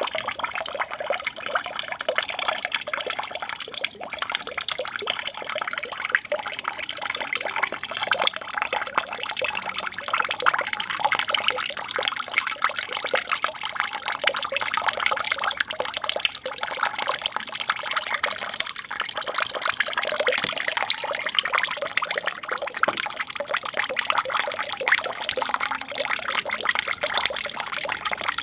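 Aquarium waterfall: water falling and trickling steadily into the tank, a constant splashing babble with fine crackle and no breaks.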